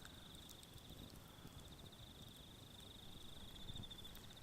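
Faint, steady high-pitched trill of crickets, close to near silence.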